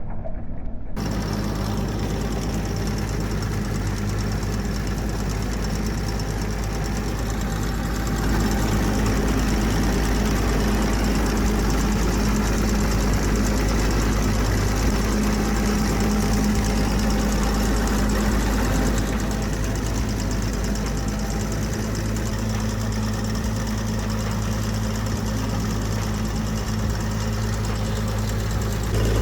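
Engine of a Berky mower boat running steadily at a constant speed, a little louder from about eight seconds in until about nineteen seconds in.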